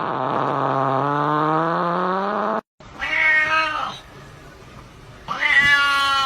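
A long, low, drawn-out call rising slowly in pitch, cut off abruptly. Then a cat meows twice: one call of about a second, and a longer one beginning about five seconds in.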